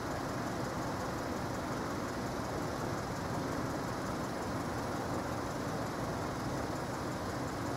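Car engine idling steadily, with no other sound standing out.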